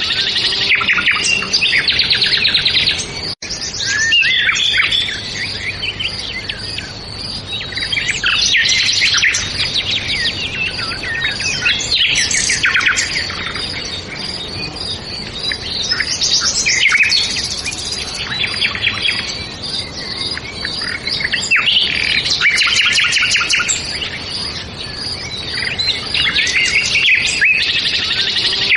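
Many birds chirping and singing at once in a dense, continuous dawn-chorus-like mix of quick trills and tweets, with a momentary break in the sound about three seconds in.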